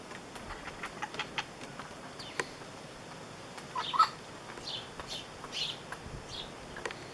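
Wild kaka parrots giving short, scattered calls, the loudest about four seconds in, with small clicks and taps among them.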